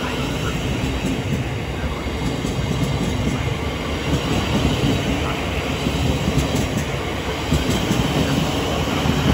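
Thameslink Class 700 electric train running past the platform as it pulls out, a steady loud rumble of wheels on rail with a few short clicks in the second half.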